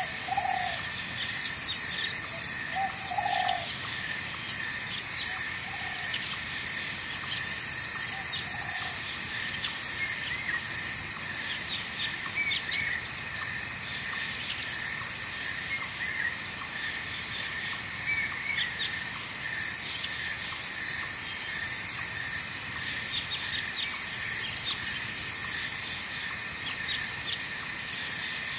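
Night forest ambience: a steady chorus of crickets and other insects, with pulsing high trills throughout. A few short frog calls come in the first several seconds, and scattered short chirps follow.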